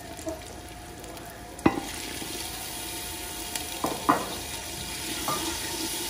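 Onions and spices sizzling in hot oil in a clay pot, the sizzle growing louder a little under two seconds in. A wooden spoon knocks against the clay pot once sharply, then a few more times as stirring starts.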